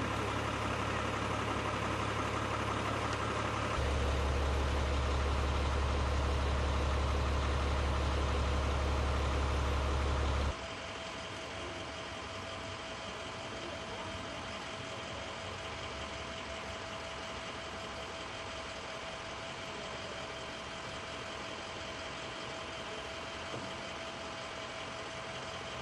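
Steady low rumble of an idling vehicle engine. It grows louder about four seconds in, then drops suddenly about ten seconds in to a quieter steady hum with a faint steady whine over it.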